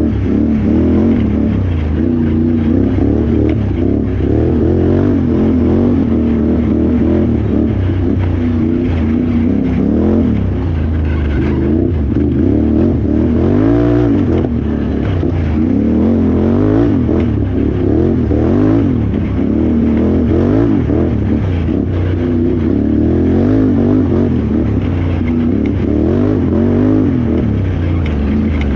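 Can-Am Renegade XXC 1000R ATV's V-twin engine under hard riding, revving up and down over and over as the throttle is worked, its pitch rising and falling every second or two.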